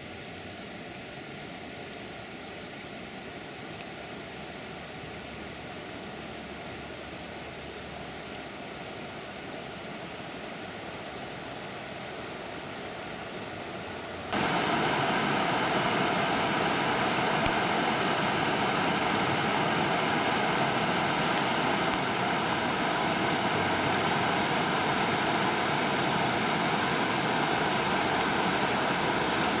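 Floodwater from a flooded creek rushing in a steady, continuous rush, louder and fuller from about halfway through after a cut. A thin, steady high whine sits over it.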